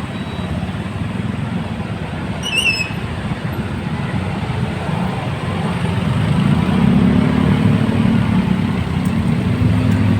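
Road traffic with a heavy truck's diesel engine rumbling, growing louder about six seconds in as it comes closer. A brief high chirp sounds once about two and a half seconds in.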